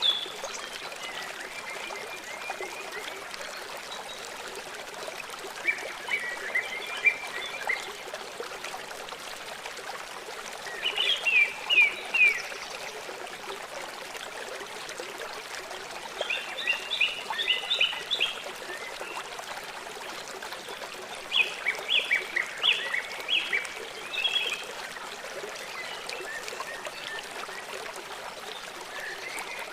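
Songbird singing short rapid trilled phrases, each a quick run of high notes lasting one to three seconds and repeated about every five seconds, over a steady trickle of running water.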